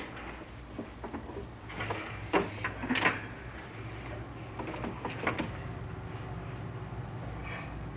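Chimney inspection camera scraping and knocking against the flue tile liner as it is lowered down the flue, in irregular clusters about two seconds in and again about five seconds in, over a steady low hum.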